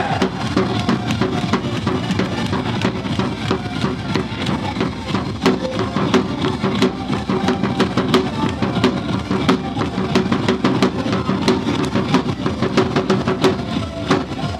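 Ballpark cheer song played loud, driven by a fast, steady drum beat.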